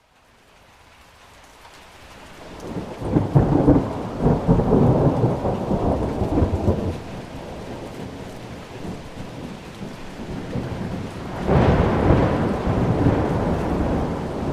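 Thunder rolling over steady rain. A long, low rumble builds about two seconds in, swells and fades, and a second peal of thunder breaks near the end.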